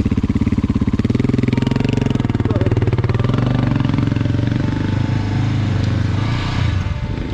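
Motorcycle engine idling close by, just after being started, with a steady, rapid firing beat; it gets a little quieter near the end.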